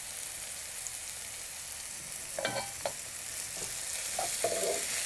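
Onions, green chillies and curry leaves sizzling in hot groundnut oil in a non-stick pan, a steady hiss. A wooden spatula stirs and scrapes across the pan a few times in the second half.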